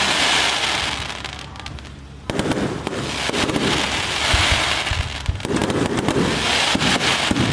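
Aerial firework shells bursting: a bang about two seconds in, with long stretches of dense crackling and hissing from the bursts.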